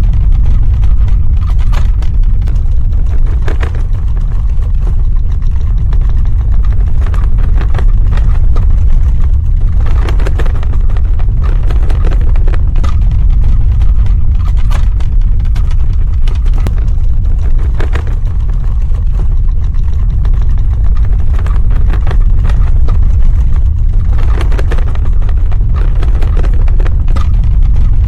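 Earthquake sound effect: a loud, continuous deep rumble with scattered cracks and crackles over it.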